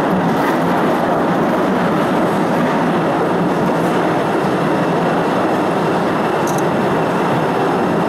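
Cave tourist train running through the cave, a steady rumble of wheels and carriages heard from a seat in an open car.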